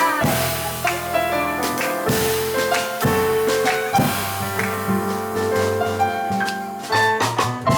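Live jazz band of piano, double bass and drums playing an instrumental passage, the piano leading with chords and single-note lines over walking bass and brushed or lightly played drums.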